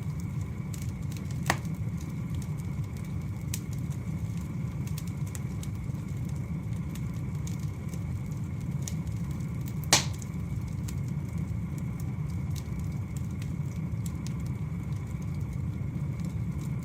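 Wood fire burning: a steady low rush of flames with scattered small crackles. Two sharp pops stand out, one about a second and a half in and a louder one about ten seconds in.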